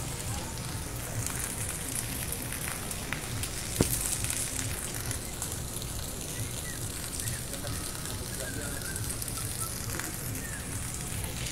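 Steady rain falling on rooftops and the street, an even hiss, with one sharp click about four seconds in.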